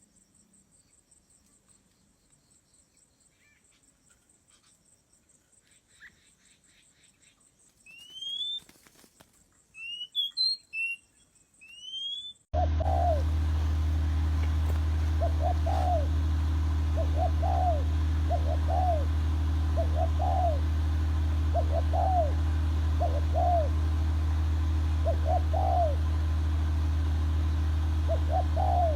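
Birds calling: first faint chirps and a few quick rising whistles. About halfway there is a sudden cut to a loud steady low hum, with a bird repeating short calls, mostly in pairs, about once a second.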